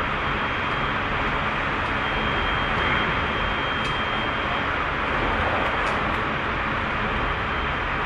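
Tobu 30000 series electric train running at speed, heard from inside the car: a steady rush of wheel and running noise, with a thin high tone that fades out about halfway through and a few faint clicks.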